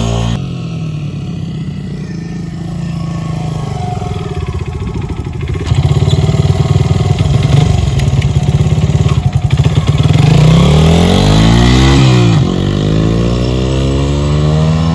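Honda XR100R dirt bike's single-cylinder four-stroke engine running as it is ridden, getting louder about six seconds in. Its pitch climbs and falls between about ten and twelve seconds in as the rider revs and shifts.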